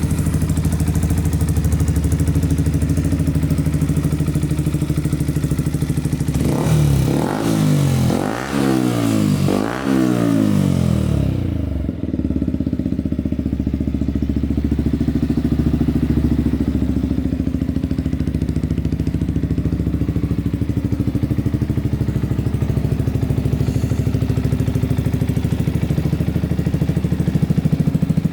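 2021 Yamaha YZF-R125's single-cylinder four-stroke engine idling steadily, blipped three times in quick succession about seven to eleven seconds in, each rev rising and falling back, then settling to idle again.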